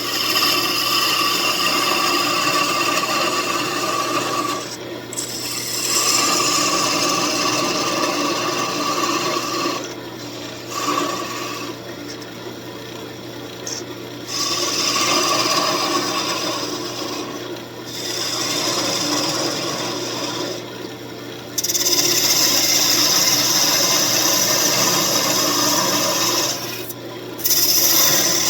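Wood lathe running while a walnut workpiece is worked against it. A rough rubbing sound comes in passes of a few seconds each, with short breaks between, and is loudest in a long pass near the end.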